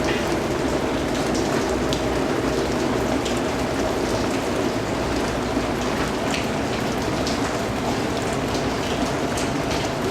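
Steady rain falling, a dense hiss with many individual drops pattering sharply on a surface.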